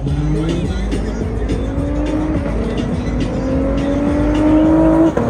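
A car engine revving hard, its pitch climbing steadily for about five seconds, then dropping off sharply near the end.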